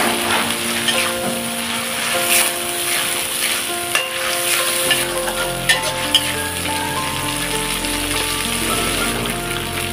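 Sausage pieces and chili paste sizzling in hot oil in a metal wok, stirred with a spatula that scrapes and clicks against the pan a few times around the middle. Instrumental background music plays underneath.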